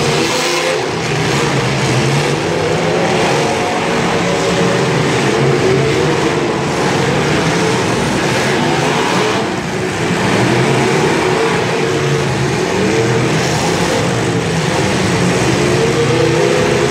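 Engines of several 1980s-class demolition derby cars running hard and revving in the arena, a loud overlapping din of rising and falling engine notes.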